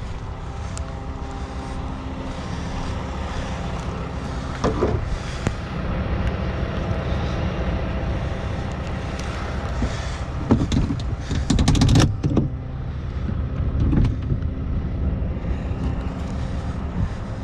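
Heavy truck's diesel engine running steadily at a low idle, with several sharp knocks and clanks about a third of the way in, a cluster around two-thirds through, and one more near the end.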